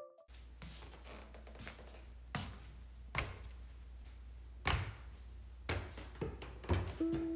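Scattered knocks and taps from handling the furnace filter and the furnace's filter slot, about eight short hits spaced unevenly, over a low steady hum.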